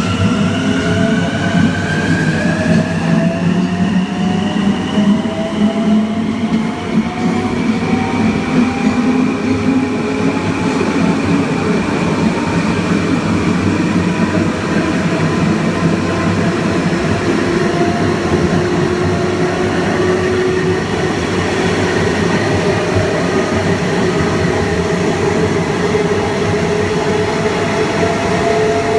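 Long Island Rail Road Kawasaki M9 electric multiple unit under power: its Mitsubishi IGBT-VVVF inverter and AC traction motors whine in several tones at once. The tones rise steeply in pitch in the first few seconds and then more slowly, a sign of the train picking up speed, over steady rail and running noise.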